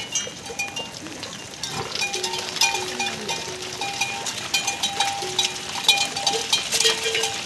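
Bells on a flock of grazing livestock clanking and ringing, many at once at different pitches, with scattered knocks as the animals move.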